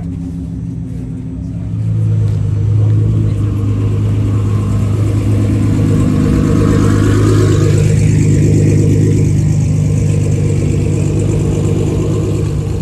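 A car engine running loud and steady close by, growing louder about two seconds in and holding there.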